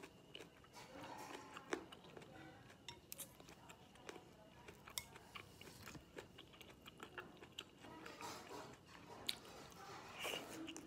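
Faint close-up chewing and wet mouth sounds with scattered small clicks, then a louder crunchy bite into a fresh cucumber slice near the end.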